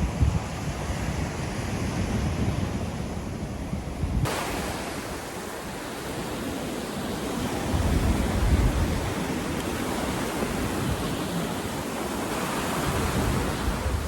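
Surf breaking and washing up the beach in a steady, swelling rush, with wind rumbling on the microphone. The sound changes abruptly about four seconds in, becoming brighter.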